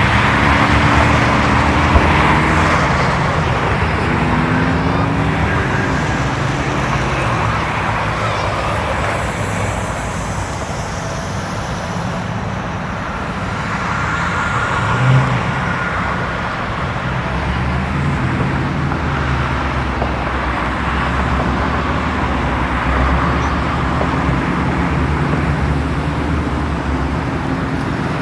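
Road traffic: cars running steadily with engine hum and tyre noise that swell and fade, and a brief knock about halfway through.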